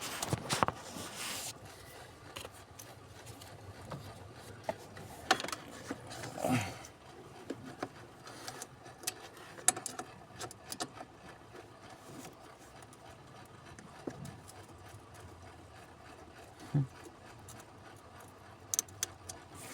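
Hand tools and plastic parts of a truck's gas pedal module being worked on: scattered clicks, knocks and rubbing at irregular intervals, with a few louder knocks.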